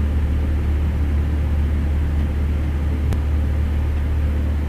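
Steady low mechanical rumble, like machinery or an engine running nearby, with one faint click about three seconds in.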